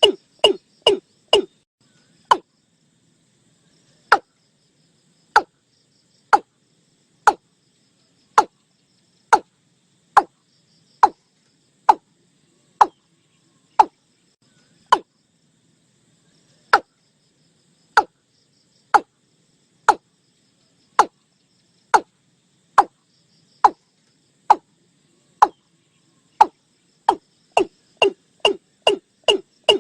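Watercock calling: a series of short, hollow, downward-sliding notes, quick at first, slowing to about one a second, then speeding up again near the end.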